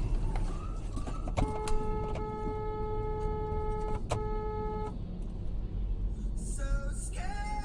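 A car horn held in long steady blasts over road and engine noise. It stops just before a second in, sounds again from about a second and a half until nearly five seconds, and comes back near the end.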